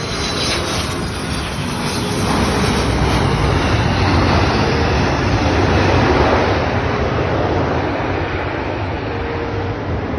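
Jet airliner's engines heard close by as a loud, rumbling noise that builds to a peak about six seconds in and then slowly eases off.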